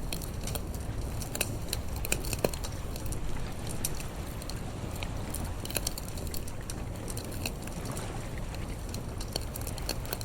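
Wood campfire crackling with irregular snaps and pops, one sharper pop about two and a half seconds in, over a steady low rumble of the sea.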